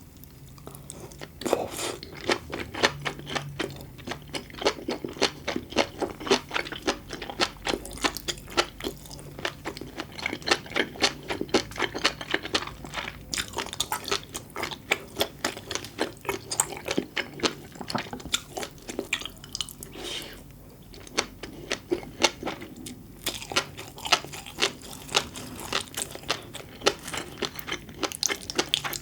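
Close-miked chewing of small popping food: a dense run of sharp wet crackles and pops as mouthfuls are bitten and chewed, with a short pause about two-thirds of the way through.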